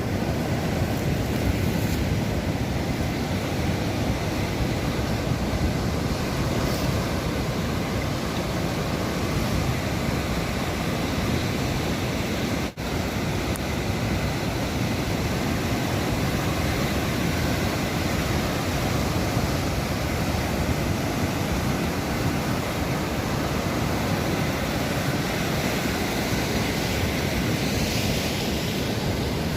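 Sea waves washing on the shore as a steady surf, broken for an instant about halfway through.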